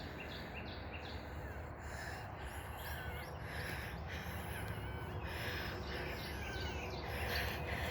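Wild birds chirping and calling outdoors: many short, high, repeating notes, some sliding in pitch, with rougher, harsher calls coming in every second or two. A steady low background rumble runs underneath.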